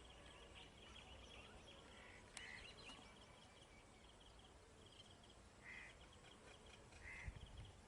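Faint birds calling: repeated runs of quick high chirps, with a few short separate calls scattered through, over a low background rumble.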